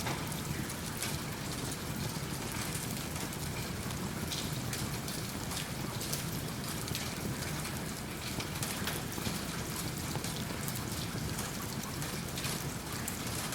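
Steady rain falling, mixed with a crackling wood fire in a fireplace, with many small sharp clicks scattered through the steady noise.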